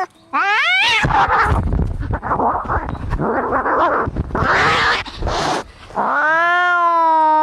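Cats fighting: a short rising yowl, then several seconds of harsh, noisy screeching, then a long, drawn-out caterwaul from about six seconds in.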